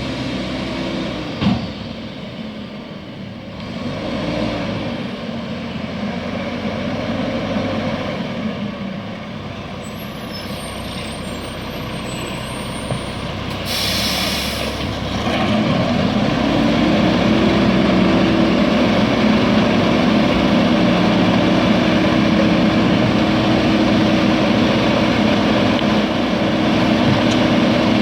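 Garbage truck engine running, with a sharp hiss of air brakes about halfway through. After that the engine runs louder at a steady, higher note.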